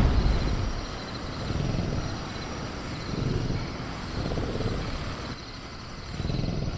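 The tail of a loud velociraptor roar sound effect fades out in the first second, followed by low rumbles that swell and fade about four times. Underneath runs a faint, steady high cricket chirr.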